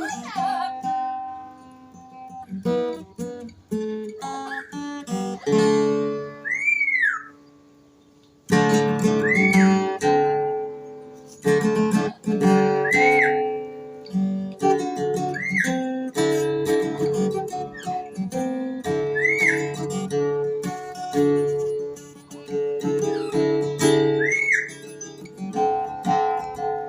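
Acoustic guitar music, plucked and strummed, with a short rising-and-falling whistle repeated every few seconds over it. The music drops away briefly partway through, then resumes.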